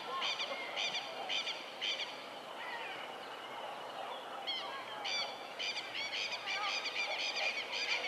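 Birds calling in rapid repeated high notes, several a second, in two bouts with a lull in the middle.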